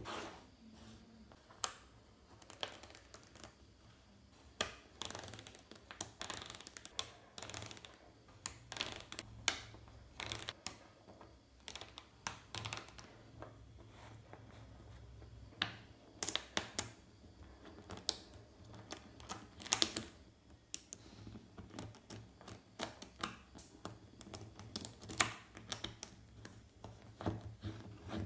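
Small magnetic balls clicking together as they are snapped into place one after another, in irregular sharp clicks and quick little clusters.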